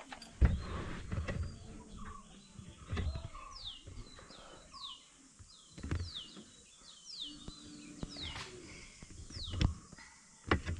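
A bird calling repeatedly: about a dozen short high notes, each sliding steeply downward, most of them between about three and seven seconds in. Several short low thumps and a low rumble sound underneath.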